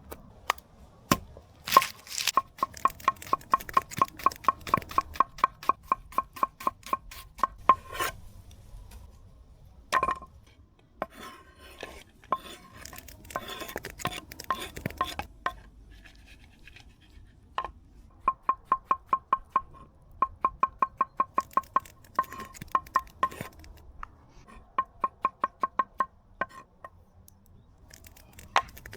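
Knife chopping vegetables on a cutting board in quick runs of about five strokes a second, with pauses between the runs.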